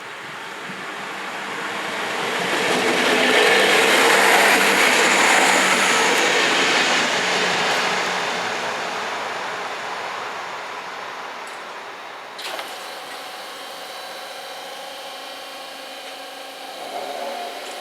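A DM '90 diesel multiple unit passing over a level crossing. Its noise swells to a loud peak about four seconds in, then slowly fades. About twelve seconds in there is a sudden click, and a steady mechanical hum with several tones follows.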